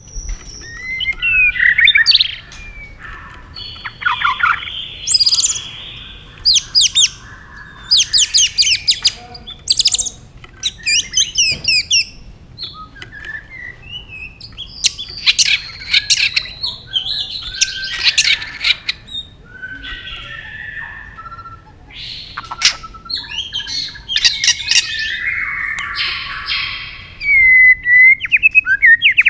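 White-rumped shama singing: a varied song of clear whistled notes, fast rattling trills and harsh chattering phrases, delivered in bursts of a second or two with short pauses between them.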